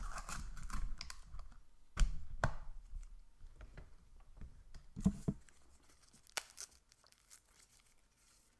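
Close-up handling and eating noises: tearing and crinkling, as of crispy fried chicken and its packaging, with scattered sharp clicks, loudest about two and five seconds in and thinning out toward the end.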